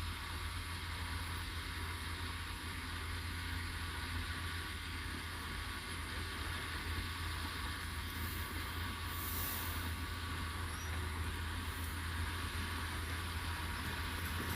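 Heavy earthmoving machinery's diesel engine running steadily, a constant low hum with no change in pace.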